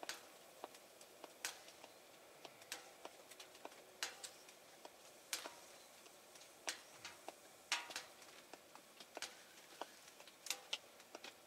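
Campfire crackling: irregular sharp pops and snaps, a few a second, from burning spruce twigs and old dry logs.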